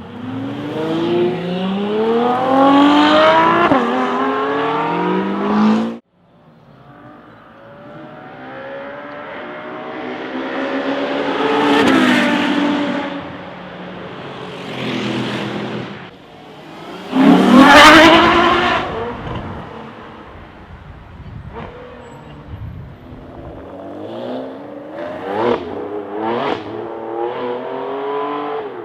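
Ferrari V12 supercars accelerating hard, the engine note rising through the revs with an upshift, then a loud high-revving pass-by whose pitch drops as the car goes by, and a series of short throttle blips near the end. These are several separate clips cut together, one ending abruptly.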